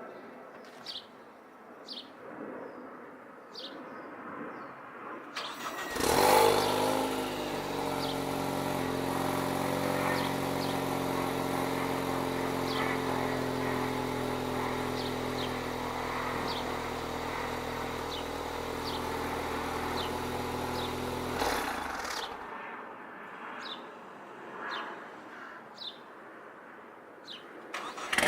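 A 2015 Ford Focus ST's turbocharged 2.0-litre four-cylinder, on a catless downpipe with an electric exhaust cutout, starting about six seconds in with a brief rev flare, settling to a steady idle, then switched off about fifteen seconds later. Birds chirp before the start and after the shut-off.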